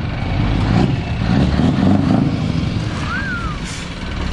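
Scania R500 V8 truck engine with a straight-piped exhaust running at low speed, swelling about a second and a half in and easing off again. A short high chirp sounds a little after three seconds.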